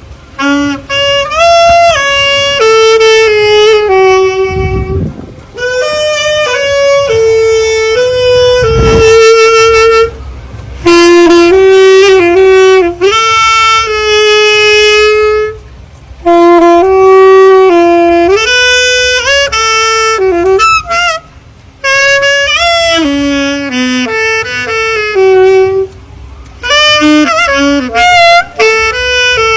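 Saxophone playing a slow, lyrical melody, one held note at a time, in phrases broken by short pauses.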